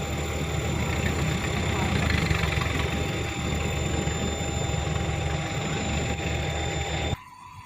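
Isuzu Elf dump truck's diesel engine running steadily, a heavy low rumble that cuts off abruptly near the end.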